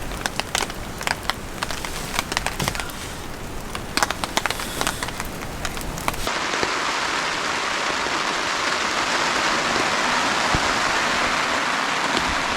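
Rain: scattered raindrops ticking irregularly on a nearby surface, then about six seconds in the sound switches abruptly to a steady, even hiss of rain.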